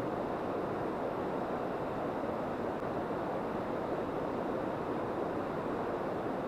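Steady rushing of a shallow mountain river's flowing water.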